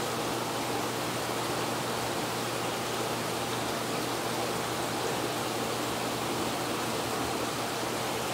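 Steady rushing of saltwater aquarium water circulation and filtration, with a low steady hum underneath.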